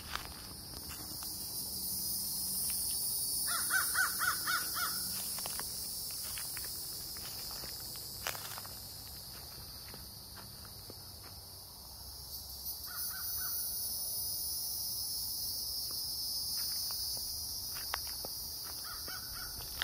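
A bird calling in quick runs of short, clipped notes: a run of about seven notes about four seconds in, then shorter runs of about three near the middle and near the end. Under it, a steady high drone of insects.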